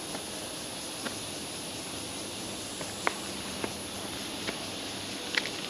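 Steady outdoor background hiss with a thin high-pitched band running through it, broken by five faint, sharp ticks scattered across the few seconds.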